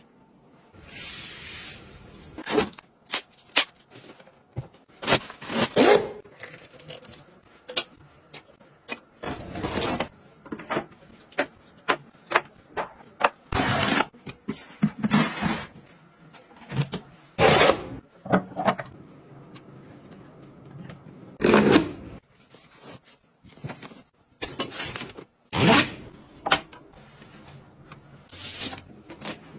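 Irregular short clicks, knocks and scrapes of household gadgets being handled and used, with a few longer rasping bursts of about half a second.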